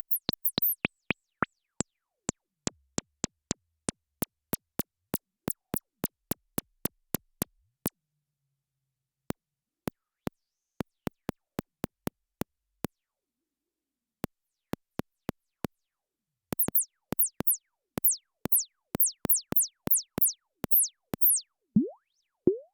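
Elektron Syntakt's analog AR UT Impulse machine playing sequenced short clicks with no effects, in an uneven pattern with gaps. From about two-thirds of the way in, the hits become faster, louder chirps that fall quickly in pitch.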